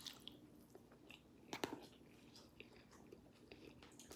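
Close-miked eating: soft chewing and mouth clicks, with one louder crunchy bite about a second and a half in.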